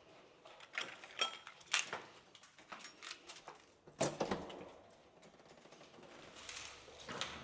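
Dishes and cutlery clinking: a scatter of light clinks, some briefly ringing, with a louder knock about four seconds in.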